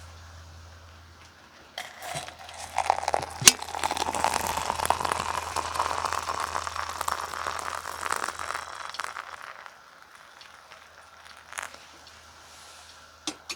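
Crinkling, crunching handling noise like plastic packaging being worked by hand, building up about two seconds in and dying away after about eight seconds, with a sharp click early on and a few scattered clicks near the end.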